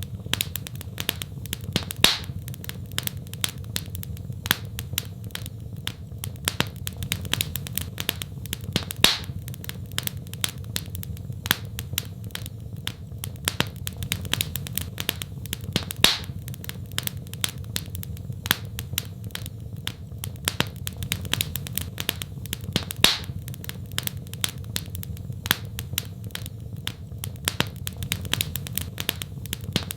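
Wood fire crackling in a fireplace: a steady stream of small pops and ticks, with a louder snap every several seconds, over a low steady rumble.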